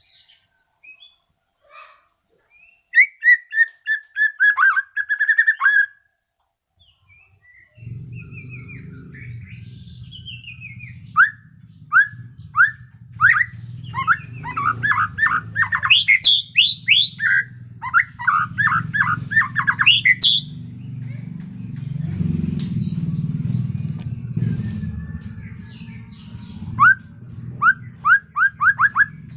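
White-rumped shama singing: bursts of loud, rapidly repeated whistled notes and quick sweeps, separated by short pauses. From about eight seconds in, a steady low rumble runs underneath.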